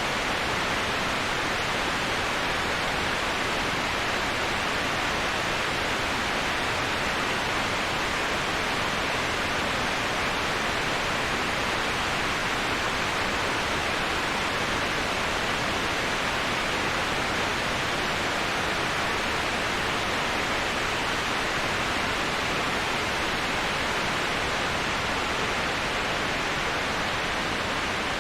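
Waterfall white noise: the steady, even rush of falling water, hissy and bright, with no breaks or changes.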